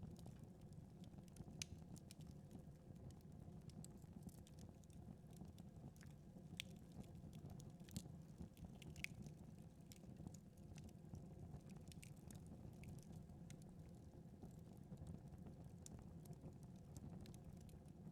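Faint crackling of a wood fire in a fireplace: scattered sharp pops and snaps over a low steady background.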